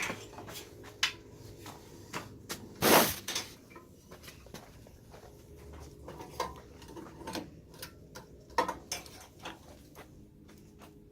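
Scattered clicks and knocks of handling on a small engine, with one louder, longer rasping noise about three seconds in.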